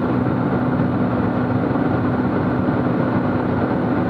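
Steady drone of a Cessna T210 Centurion's turbocharged six-cylinder piston engine and propeller in cruise, heard from inside the cabin, with one even hum that holds its pitch throughout.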